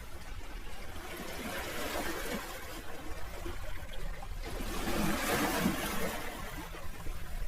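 Sea waves washing in, the wash swelling about two seconds in and again around five seconds, over a steady low rumble.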